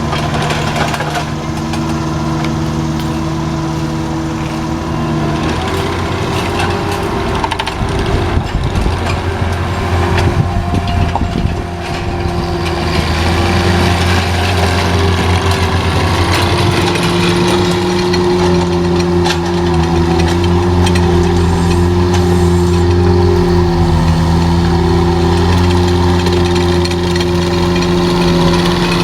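Heavy machinery engine running steadily. Its pitch shifts about five seconds in, and after a brief dip near twelve seconds it runs louder for the rest.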